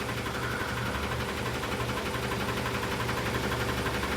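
Garbage truck's diesel engine idling, a steady low pulsing rumble with a constant hum over it.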